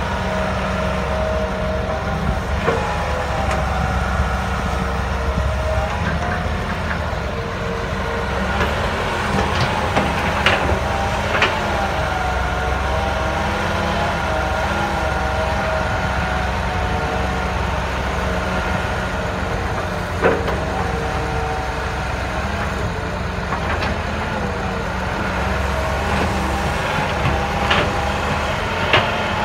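Hydraulic excavator running steadily, its engine drone overlaid with a wavering whine, and several sharp knocks spread through the stretch.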